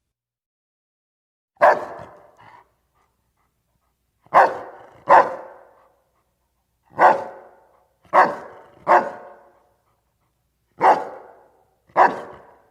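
A dog barking: eight single barks, some coming in quick pairs, each with a short echoing tail.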